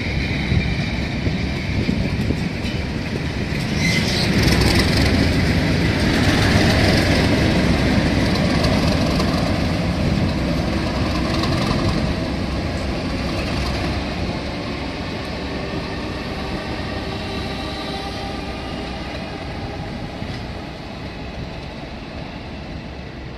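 A train running past, its rumble swelling to its loudest about five to eight seconds in and then slowly fading, with a faint whine in the later part.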